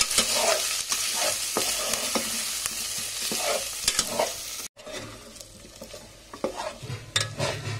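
Taro pieces frying in hot oil in a metal pot, sizzling steadily, while a metal spatula stirs and scrapes them against the pot. A little under five seconds in, the sizzle cuts off abruptly and comes back much quieter, with scattered scrapes and clinks of the spatula.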